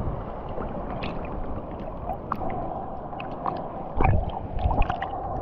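Sea water sloshing and gurgling close around the microphone, with scattered clicks and crackles and a heavy low surge about four seconds in.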